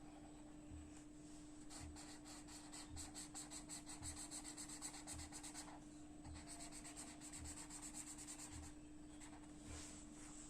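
Colouring on paper: quick back-and-forth scratchy shading strokes in three spells with short pauses between them.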